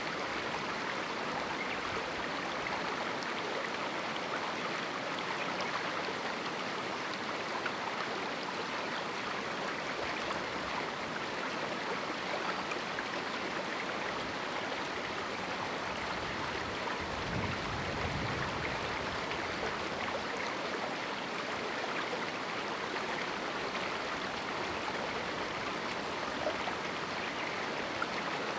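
Small canyon river flowing with a steady, even rush of water. A brief low rumble rises under it about two-thirds of the way through.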